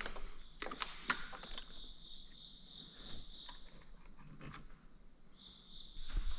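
Scattered light clicks and knocks of parts and tools being handled, loudest in the first second or so, over a steady high-pitched drone with a faint pulse in it that partly drops out for about two seconds past the middle.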